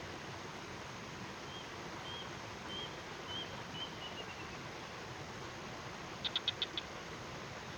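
A bird calling over a steady outdoor hiss: short high chirps about every half second, trailing off into a falling trill. Near the end comes a quick run of five sharp clicks, the loudest sound here.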